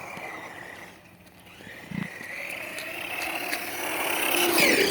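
A truck's motor running with a steady whine that wavers in pitch and grows louder over the last couple of seconds.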